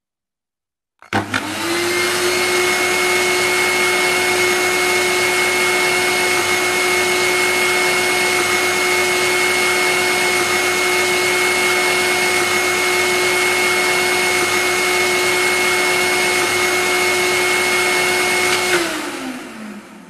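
Vacuum cleaner switched on about a second in, its motor quickly spinning up to a steady high whine over a hiss of rushing air. It runs evenly, then is switched off near the end, the pitch falling away as the motor winds down.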